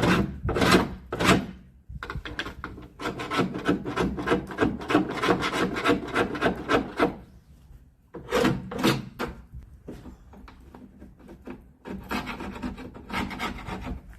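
A hand tool scraping and rasping at old hard window putty in a steel glazing frame. It makes three long strokes, then a quick run of short scrapes for several seconds, and after a pause two more bursts of scraping.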